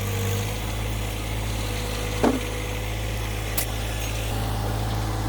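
Tractor engine running steadily, a continuous low drone. A short sliding squeak cuts in about two seconds in.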